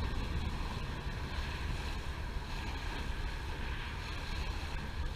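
Steady wind buffeting the microphone over the rush of water along the hull of a boat under way, with a heavy low rumble.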